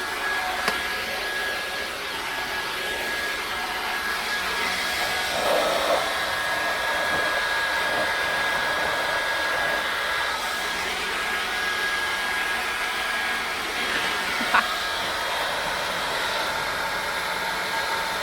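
A small motor running steadily with an airy rush and a constant high whine, switched on just before.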